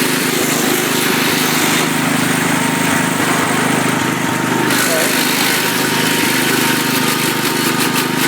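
1972 International Harvester Cub Cadet 128 garden tractor's single-cylinder Kohler engine running steadily while the tractor is driven.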